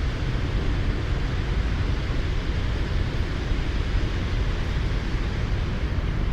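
Steady background rumble and hiss, heaviest in the low end, with no bird calls.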